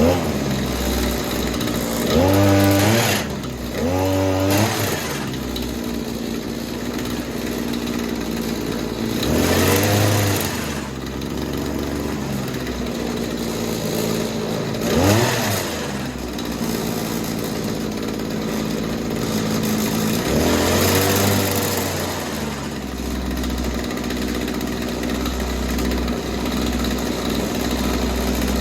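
Shindaiwa hedge trimmer's small two-stroke engine running, revved up and let back down to idle five times. The blades have just been freed with oil after being rusted together.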